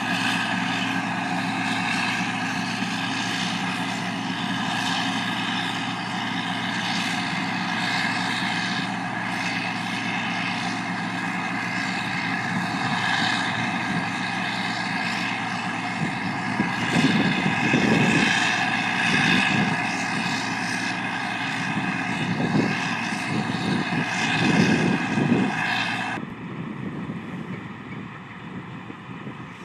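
Harvest machinery engine running steadily, with a high whine over a heavy drone. Gusts of wind buffet the microphone for several seconds past the middle. About four seconds before the end, the high whine cuts off suddenly and the sound drops to a quieter rumble.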